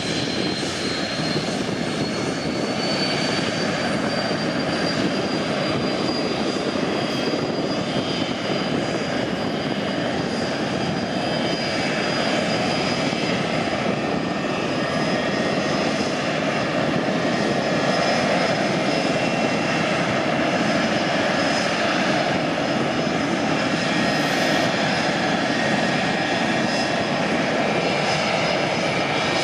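Business-jet turbofan engines running, with a high whine that rises in pitch over the first few seconds and then holds steady over a rushing noise that grows slightly louder.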